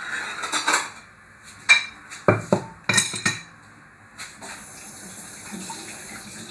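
Kitchen clatter: about five sharp knocks and clinks of utensils and dishes in the middle stretch, with a steady low background noise after them.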